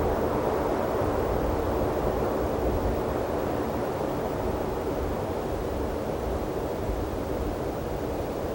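A steady low rushing roar that eases off slowly, with gusty low rumble from wind on the microphones underneath.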